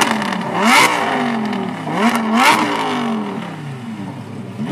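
Supercar engine revving hard twice, each time its note climbing steeply and then falling away slowly.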